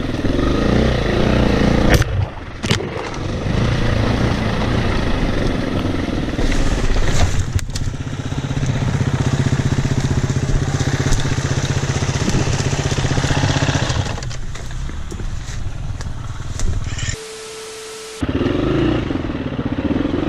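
Dirt bike engine running under riding load, its level rising and falling. The engine noise is mixed with wind and trail noise on the rider's camera. Near the end, a steady beep-like tone lasts about a second while the engine sound drops out.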